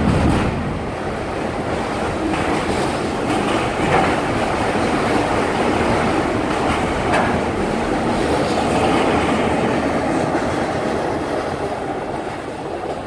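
Autorack freight cars rolling past: steady steel-wheel-on-rail rumble with occasional clacks, fading near the end as the last car goes by.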